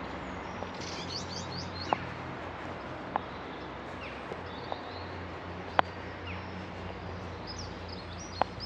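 Small birds chirping in short bursts of quick high notes, about a second in and again near the end, over a steady outdoor background hum. A few sharp taps stand out as the loudest sounds, spaced a second or more apart.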